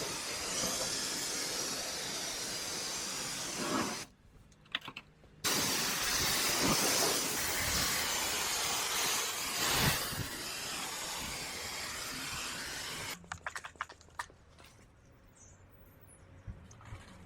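Liquid spraying hard from a nozzle, an even hiss that stops for about a second and a half some four seconds in, resumes, and cuts off about thirteen seconds in, leaving a few light clicks.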